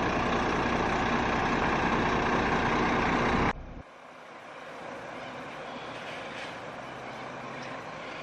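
Rail-replacement bus engine running steadily close by, then cut off abruptly about three and a half seconds in, leaving a much quieter distant vehicle rumble that slowly grows.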